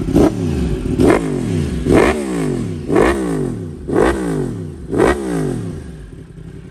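Yamaha R1M's crossplane inline-four engine being blipped six times, about once a second: each throttle blip shoots the revs up sharply and lets them fall straight back to idle. Near the end it settles to a steady idle.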